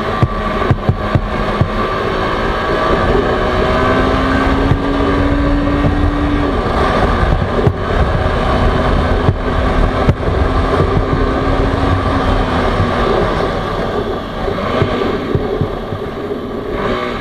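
TVS Apache RR310's single-cylinder engine running under way, the engine note holding fairly steady with small rises and dips.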